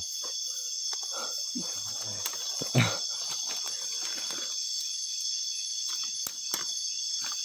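Steady high-pitched chorus of night insects, with scattered rustles and knocks from moving through wet undergrowth, one louder knock about three seconds in.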